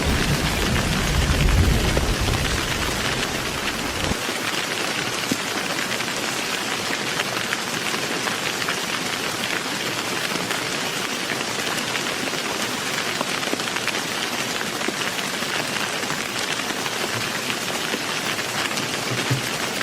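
Heavy rain falling steadily in an even hiss. A low rumble of thunder carries on through the first few seconds and stops about four seconds in.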